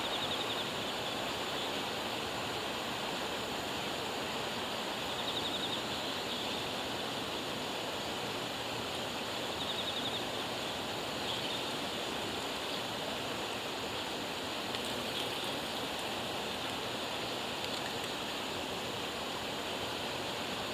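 Steady rush of running water, even and unbroken. A few short, fast high trills sound over it, about five seconds apart early on, then fade out.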